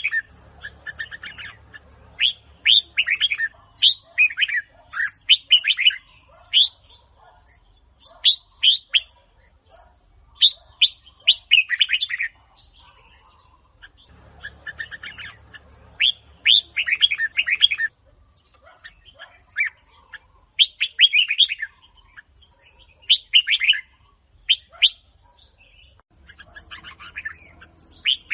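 Red-whiskered bulbul (Huế chào mào) singing: short phrases of quick, bright notes, repeated with pauses of a second or two between them.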